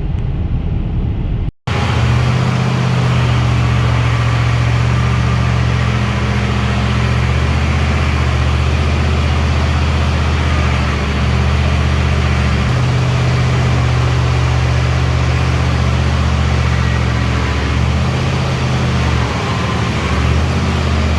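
Car engine and exhaust running steadily: a low drone whose pitch steps up and down a few times, as with engine speed changing while driving.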